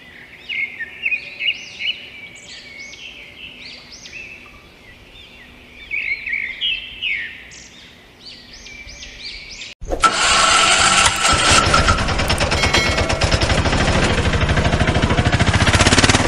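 Birds chirping repeatedly, then about ten seconds in a sudden loud, fast-pulsing mechanical rattle starts and carries on.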